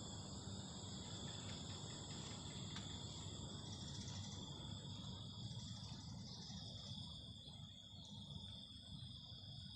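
Outdoor insect chorus: several insects trilling steadily at different high pitches, over a low rumble.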